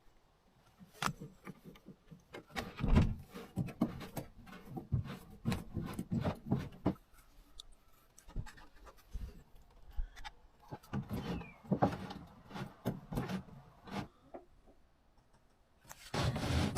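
Hand work on a Mariner 30 hp outboard's freshly greased pivots and linkages: irregular metal clicks, knocks and rubbing scrapes as the parts are worked, with a short lull near the end. The parts are being freed up after being found dry.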